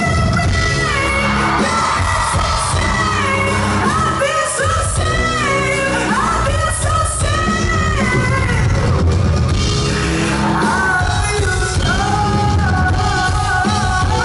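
Live pop-rock band playing loudly in a concert hall, with a wavering sung vocal melody over drums, bass and guitars.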